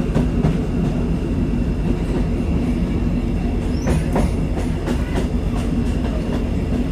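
Inside a diesel passenger train running along the track: a steady low rumble of the engine and wheels, with the clack of the wheels over rail joints in pairs about four and five seconds in and a brief high wheel squeal just before.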